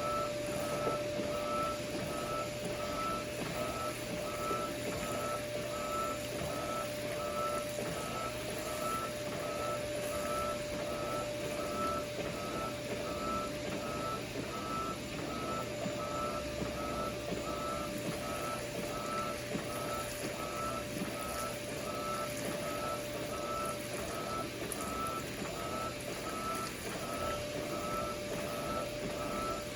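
Electronic alarm beeping steadily, a little more than once a second, over a constant hum and a steady rush of machine noise.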